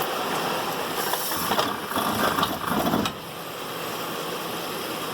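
Rattling mechanical noise from a 2011 Ford Edge's front drivetrain, running in drive on a lift as the brake is held. It is louder and rougher for about three seconds, then drops suddenly to a lower steady noise. The mechanic traces the noise to the front half-shaft's CV joint, whose ball tracks turn out to be damaged.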